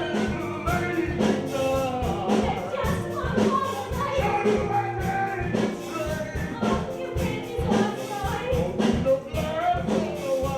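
Live pit band playing an upbeat rock-and-roll show tune with a steady drumbeat, with voices singing over it.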